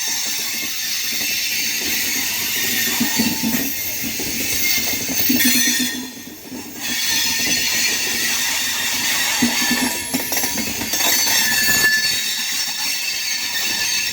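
Chozhan Superfast Express passenger train running on the rails: steady wheel-and-track noise with brief wheel squeals. The noise dips for about a second around the middle.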